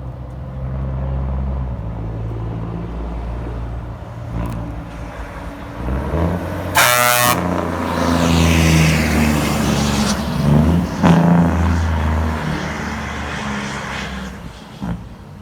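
Heavy truck engines with open exhaust pipes running, the low engine note growing louder through the middle and fading near the end; a short truck horn blast about seven seconds in.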